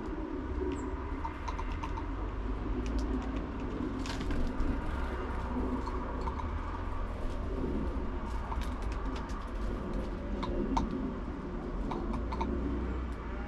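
Pigeons cooing, with brief small-bird chirps and scattered sharp clicks.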